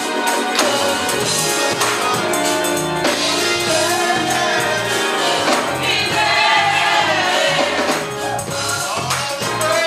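Gospel music: a choir singing over a live band, with bass and tambourine keeping a steady beat.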